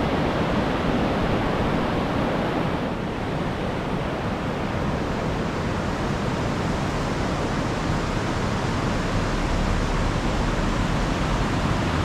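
River Dee running high and fast after a storm: a steady, unbroken rush of water.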